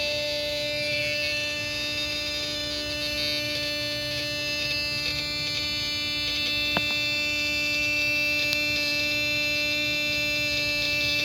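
Steady electrical buzz from under a car's hood, one unchanging tone, with a single click partway through. The car will not start, and the owner links the sound to a battery terminal protector spray put on the cables.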